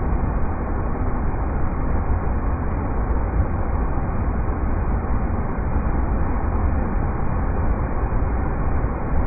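River rapids rushing: a steady, deep, unbroken water noise.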